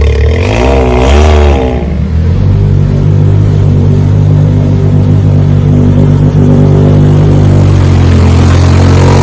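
Motor vehicle engine blipped up and down twice, then running loud at a steady speed.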